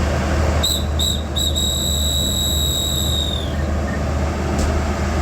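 Train guard's hand whistle blown as a departure signal: two short blasts, then one long blast of about two seconds whose pitch sags as it ends. A steady low engine hum runs underneath.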